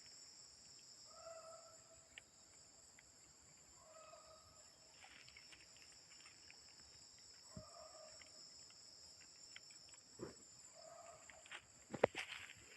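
Wild animal in a forest repeating a short, low call about every three seconds, four times, over a steady high-pitched insect chorus. A couple of sharp knocks or rustles come near the end.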